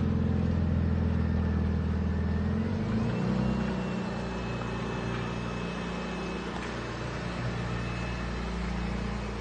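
Car engine running at a steady speed; about three seconds in its note drops to a lower, quieter hum and then holds steady, with a faint high whine above it.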